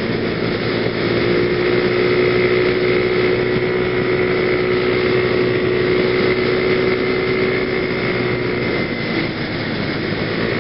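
PGO BuBu 125cc scooter engine running steadily at cruising speed, picked up by a helmet camera. Its pitch dips briefly near the end, then picks up again.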